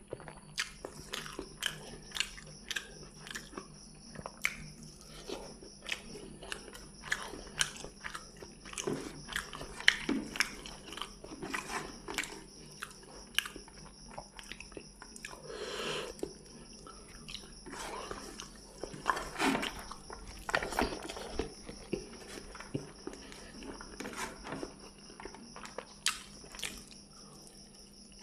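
A person chewing and biting while eating fried fish and rice by hand: a steady run of sharp little mouth clicks and smacks, with a few longer chewing sounds in the second half.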